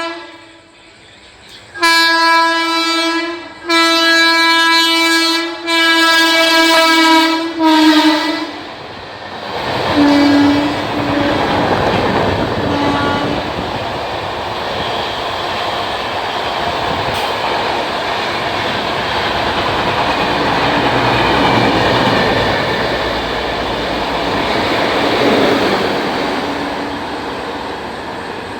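A locomotive horn sounds a brief blast and then four long blasts over the first eight seconds. After that an express train passes at speed, with a steady, loud rush of wheel and track noise and a clatter of wheels over the rails.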